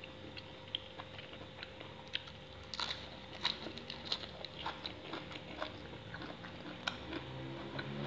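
A person chewing a mouthful of raw shrimp and fresh leafy greens, with many small, irregular crunches.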